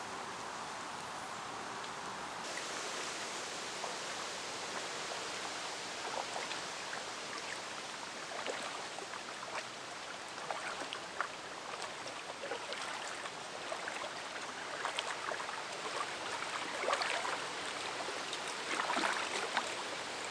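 Steady rush of flowing river water, with scattered drips and small splashes that become more frequent toward the end.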